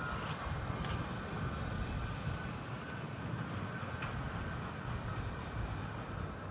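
New York City subway train running, a steady low rumble with a faint electric whine that fades away and a few light clicks.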